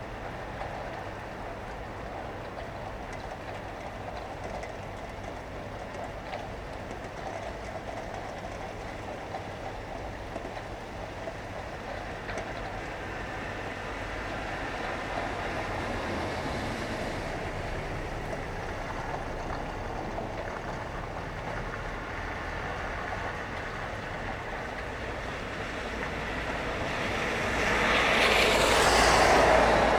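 Rain and traffic through an open window: a steady wash of noise over a low hum, with a vehicle passing close near the end, swelling loud and then fading.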